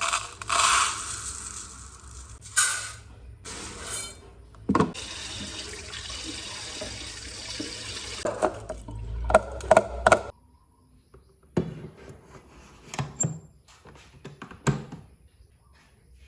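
Water running steadily for about five seconds amid clinks and knocks, then stopping abruptly; after it, only a few light knocks.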